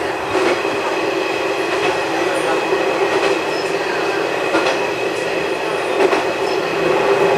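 Diesel railcar running along the track, heard from inside the car: a steady engine and running hum, with the wheels clicking over rail joints about every second and a half.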